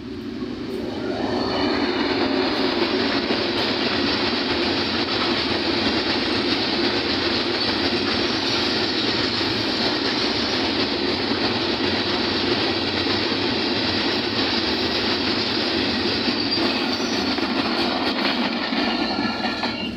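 Freight train passing at speed: the ZCU-20 diesel-electric locomotive goes by, then a long line of coal hopper wagons rolls past with steady, loud rail and wheel noise. The sound builds over the first couple of seconds and fades near the end as the brake van passes.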